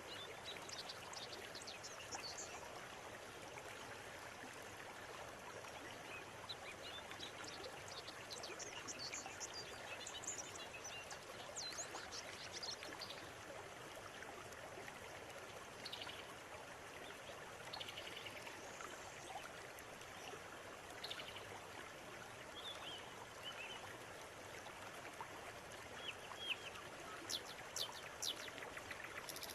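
River water running steadily over stones, with small birds chirping and calling on and off, several quick chirps near the end.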